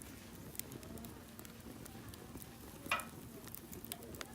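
Wood campfire crackling, with scattered sharp pops and one louder snap about three seconds in.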